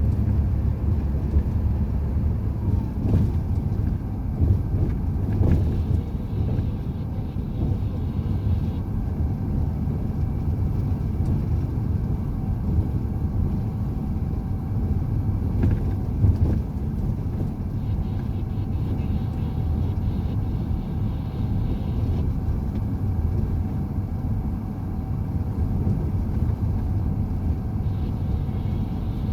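Heavy truck driving at steady speed: a continuous low rumble of engine and road noise, with a few faint knocks.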